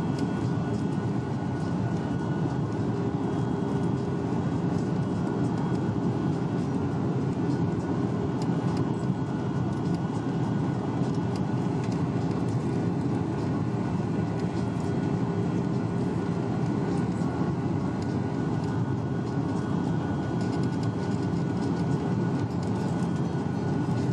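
Steady cabin noise inside a Boeing 737-800 in flight: an even roar of airflow and CFM56-7B engine drone, with a faint steady hum.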